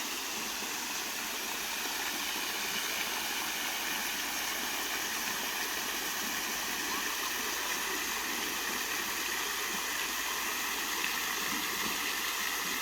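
Small waterfall with only a thin flow of water left after a drought, splashing down in a steady, even hiss.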